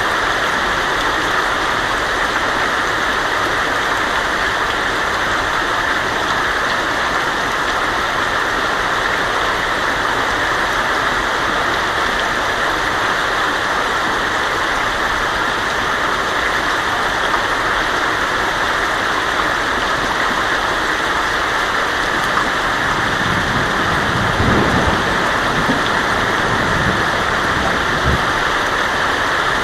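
Heavy rain drumming steadily on a tin roof, a dense even hiss. Near the end a brief low rumble of thunder rises under the rain.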